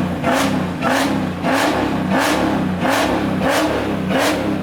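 A car engine revved in quick, evenly spaced blips, about three every two seconds, its pitch rising and falling with each one.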